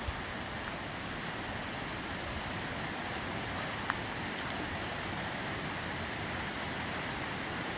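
Steady rushing water, with one short click about four seconds in.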